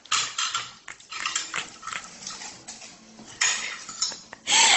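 A dog eating noisily: a string of short, wet chewing and smacking sounds.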